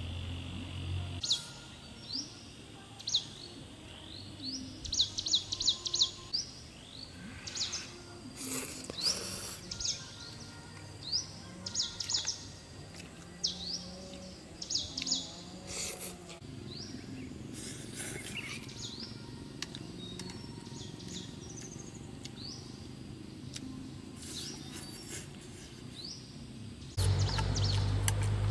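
Wild birds chirping all through, in short high calls that often come in quick runs of several, with a few brief noisy rustles among them. A louder low rumble comes in near the end.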